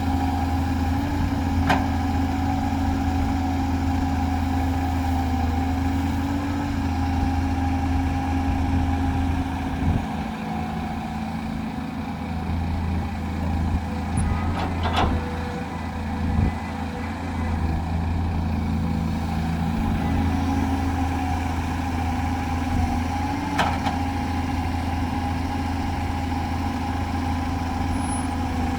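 Heavy diesel earthmoving machinery running steadily with a low drone, easing off briefly a few times, with a few sharp metallic clanks.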